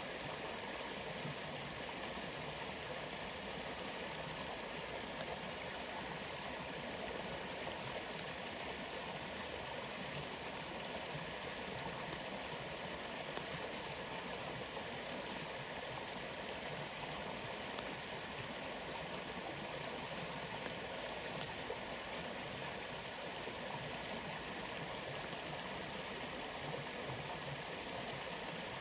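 Waterfall and flowing stream water: a steady, unbroken rush.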